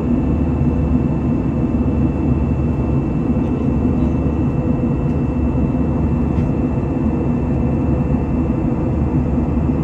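Airplane cabin noise: a steady low rumble with a faint, even high whine above it.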